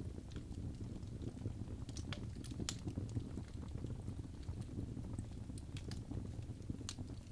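Fire burning in a fireplace, crackling: irregular sharp snaps and pops over a low steady rumble of the flames.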